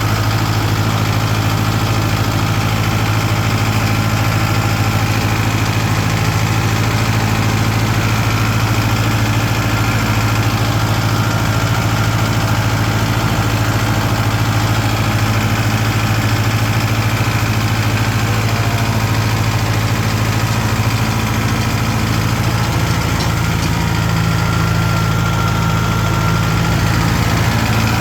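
Tractor engine running steadily with a deep, even hum, shifting slightly in tone about three-quarters of the way through.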